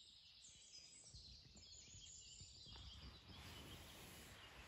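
Near silence: faint outdoor background with a few soft, small rustles or knocks.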